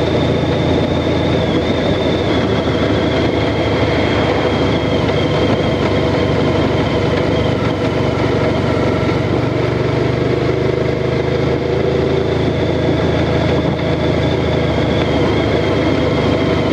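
Honda Crosstourer's V4 engine running steadily.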